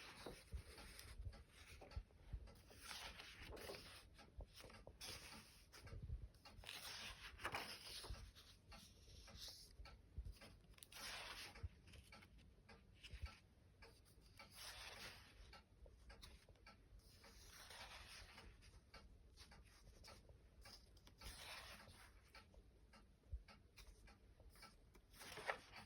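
Faint rustling of paper as the pages of a thin children's book are turned one after another, in irregular swishes every second or few, with small soft knocks of handling.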